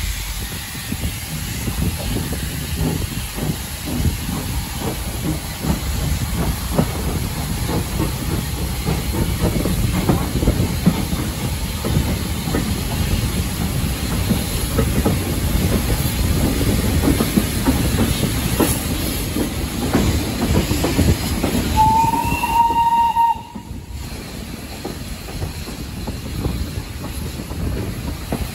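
Steam-hauled heritage train coaches rolling along the track, wheels clattering and steam hissing past. About 22 seconds in a single whistle sounds for just over a second, and then the running noise drops sharply.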